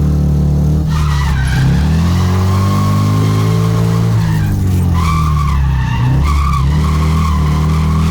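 Scion FR-S drift car drifting: the engine's pitch rises and falls as it revs, while the tyres squeal and skid from about a second in, and again more strongly from about four and a half seconds on.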